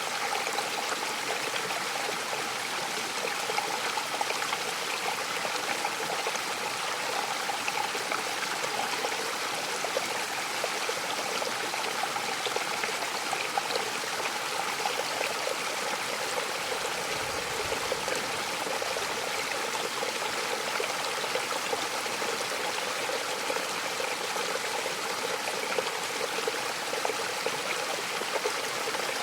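Waterfall splashing and rushing steadily, with no let-up in its flow.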